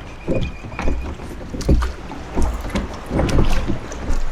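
Dinghy being rowed with oars: a run of uneven strokes, each a surge of splashing and knocking, with a brief high squeak near the start.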